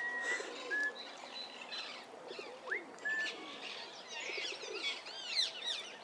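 Birds calling: a few clear whistled notes, some rising, then a run of quick high chirps in the second half.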